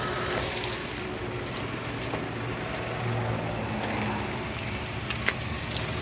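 Vehicle engine idling steadily, with a few light clicks and one sharp knock about five seconds in.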